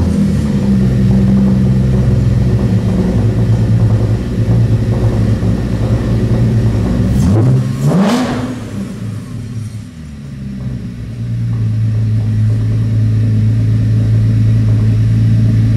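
Mercedes-Benz W204 C300's V6 engine running just after its first start following a race-car rebuild. It runs at a fast idle, dips and is revved up briefly about halfway through, then settles into a steady idle.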